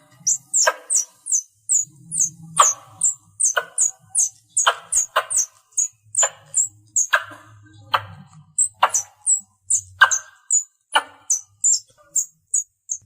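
Squirrel calling: a rapid, steady train of short high-pitched chirps, about three a second, with a louder, sharper chip roughly once a second. It is the contact call used to lure other squirrels in.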